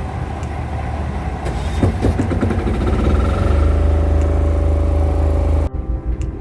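A tugboat's diesel engine running loud and steady in the engine room, with a deep hum; its note shifts up about three and a half seconds in. Near the end the engine sound cuts off suddenly and quieter music takes over.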